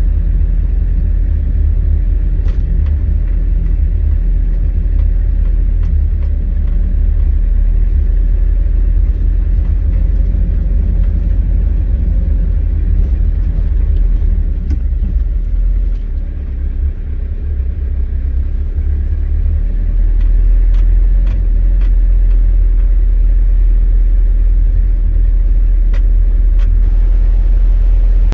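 Engine of an old 1940-built GMC logging truck running with a heavy, steady low rumble. It eases off somewhat in the middle, grows louder again about two-thirds of the way through, then cuts off abruptly at the end.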